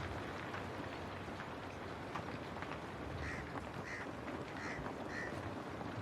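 Steady rain pattering on a window pane, with scattered drop ticks. In the second half a crow caws four times in a row.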